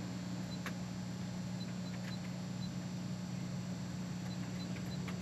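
Checkout register keypad beeping in quick runs of short, high beeps, about three a second with pauses between runs, as a purchase total is keyed in. A few light clicks come through over a steady low electrical hum in the store.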